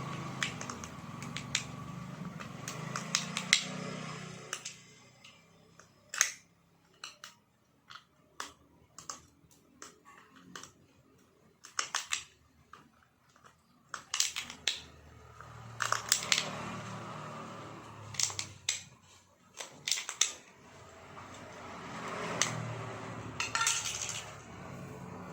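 Metal parts and hand tools clicking and clinking in irregular knocks during disassembly of the broken spring seat, with a low rumble swelling near the start and again near the end.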